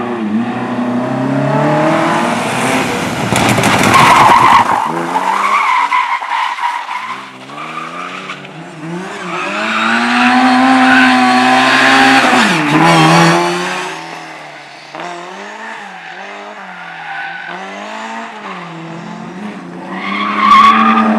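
Competition car driven hard through a slalom course: the engine revs up and drops back again and again as the driver shifts and brakes, with tyres squealing and skidding. It is loudest about four seconds in and again around ten to thirteen seconds, then settles lower for a while before rising near the end.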